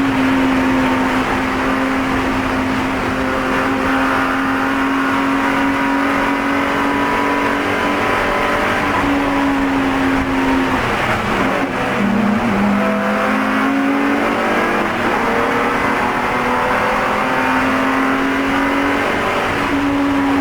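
Spec E46 BMW race car engine running hard at high revs on track. The note holds steady for long stretches with short breaks. Around the middle it drops in pitch, then climbs again.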